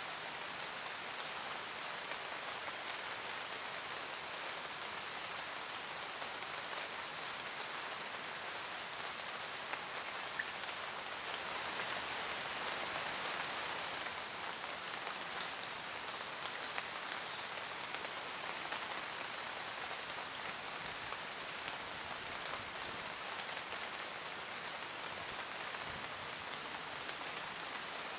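Steady rain falling on forest leaves, an even patter that swells slightly about halfway through, with a few separate drops ticking.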